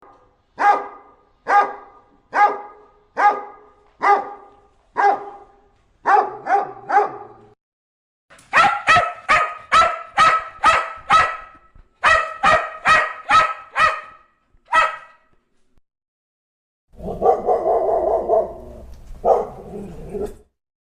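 A dog barking over and over, first at about one bark a second, then in quicker runs of several barks. Near the end comes a longer, rougher sound lasting about three seconds.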